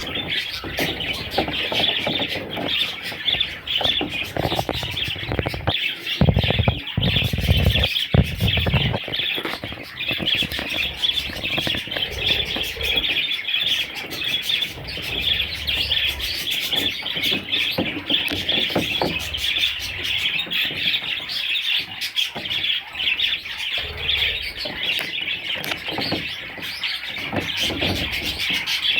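A flock of budgerigars chirping and chattering without pause, a dense busy warble. A few low bumps are heard between about six and nine seconds in.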